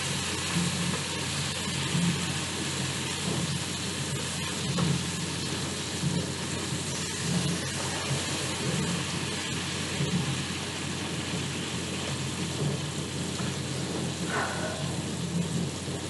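Breaded chicken fried steak (floured cube steak) frying in hot oil: a steady sizzle with light crackling.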